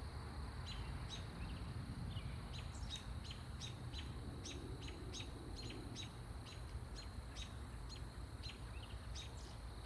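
Small bird giving repeated short chirps, about two a second, over a steady low rumble.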